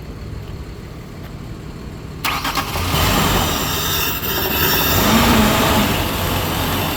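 2002 Ford Ranger's 2.3-litre 16-valve four-cylinder engine starting suddenly about two seconds in, then running loudly. It runs only on spray fed through the intake, because the fuel pump is bad.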